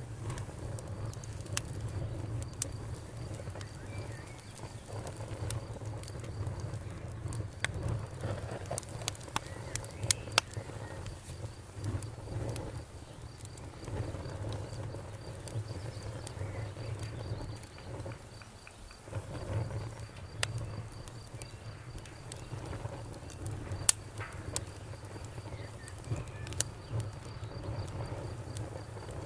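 Campfire burning with a low steady rumble and scattered sharp crackles and pops, one louder pop late on. A faint, steady insect trill runs underneath.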